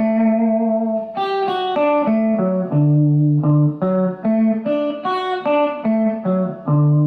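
Electric guitar playing a country lick of single picked notes around a D major arpeggio, one clear note after another, ending on a long held low note.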